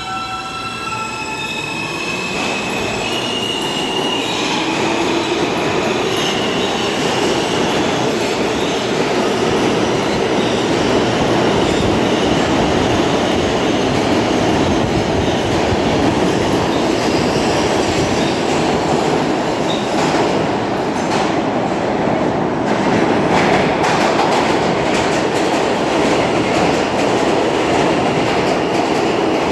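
An R160 subway train accelerating through the station. Its propulsion gives a whine that steps up in pitch over the first few seconds, under a rumble of wheels and rail that grows louder as it gathers speed and then holds steady, with wheel squeal and a run of rail clicks about two-thirds of the way in.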